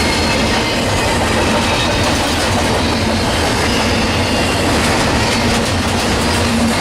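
Freight train of single-stack container cars rolling past close by: a steady rumble and clatter of steel wheels on the rails, with faint thin high squealing tones from the wheels.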